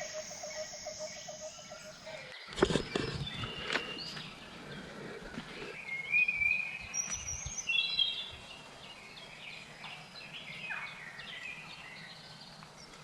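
Rainforest ambience. A steady pulsing insect buzz cuts off about two seconds in, followed by a few knocks, then birds chirping and calling in short whistled phrases.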